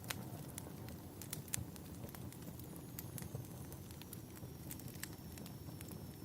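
Wood fire burning in a fireplace: irregular crackles and sharp pops, a couple of them louder, over a steady low rumble.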